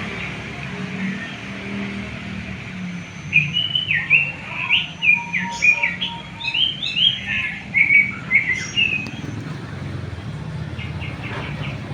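A small songbird singing a quick, varied run of chirps for about six seconds, starting a few seconds in, over a steady low hum.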